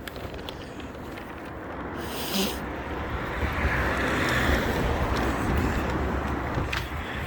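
A car passing along the street, its tyre and engine noise swelling to a peak about four seconds in and then easing off, over low wind rumble on the microphone.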